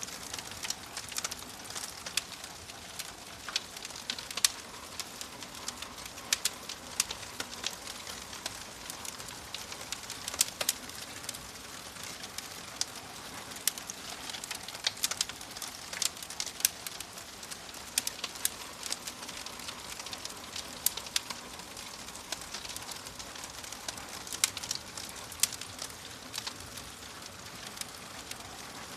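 Wood fire in a fireplace crackling, with frequent irregular sharp pops over a steady hiss.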